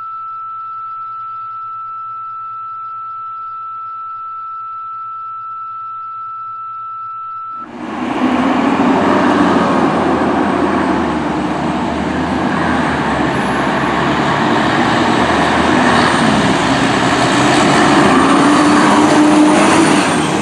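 A steady, unchanging high tone for about seven and a half seconds, then loud street noise with a heavy diesel engine running as the fire engine responds.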